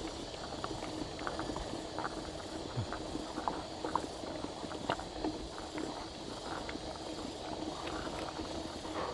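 Mountain bike being ridden over rough ground: a steady rushing noise with irregular small clicks and rattles from the bike.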